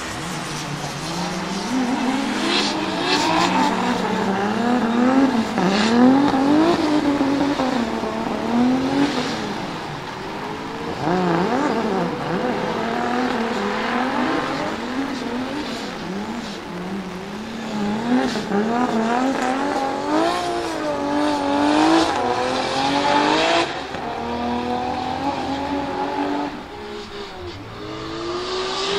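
Turbocharged 2JZ-GTE inline-six in a drift-built Toyota GT86, revving hard and dropping back over and over as the driver feathers the throttle through a drift. It is running a low-boost setup for the wet track.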